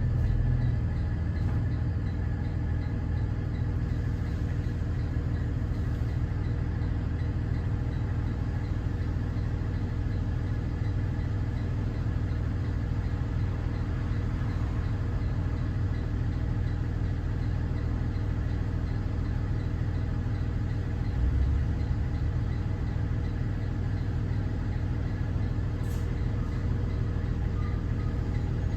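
Cummins ISB 6.7 diesel engine of a Thomas Saf-T-Liner C2 school bus running steadily with an even low drone.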